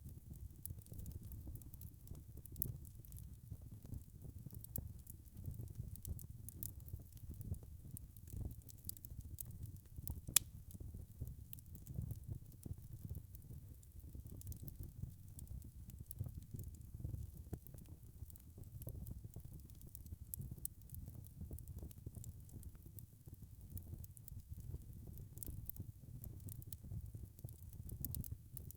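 Wood logs burning in a fireplace: a steady low rumble of flame with constant small crackles, and one louder pop about ten seconds in.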